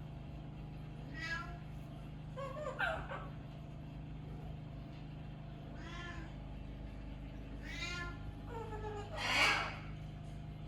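Several short, meow-like animal calls, spaced a second or more apart; the loudest and harshest comes about nine seconds in. A steady low hum runs underneath.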